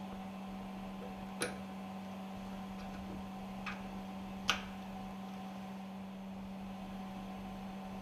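Three short metallic clicks of small steel parts being handled during assembly of a fuel pump valve, the third, about four and a half seconds in, the loudest, over a steady electrical hum.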